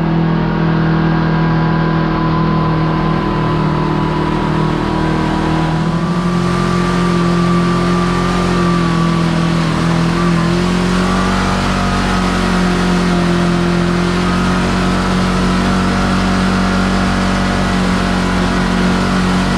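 Kawasaki KRX4 1000 side-by-side's engine running under way at a steady pace. Its pitch dips slightly about halfway through, then rises a little and holds.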